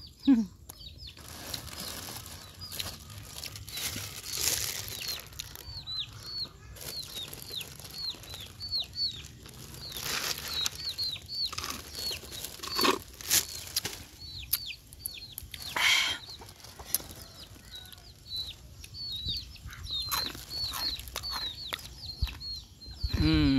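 Small birds chirping over and over in short, high calls, every second or so, with scattered rustles and knocks and a short, lower-pitched call near the end.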